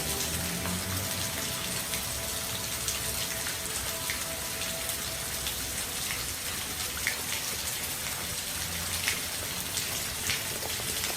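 Steady rain falling, an even hiss with scattered sharp drop ticks striking close by.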